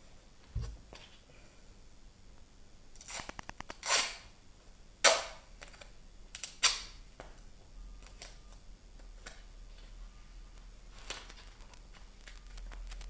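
Duct tape pulled off the roll and torn: a fast crackle about three seconds in that builds into a loud rip, then two more sharp rips a second or so apart, and a weaker one later.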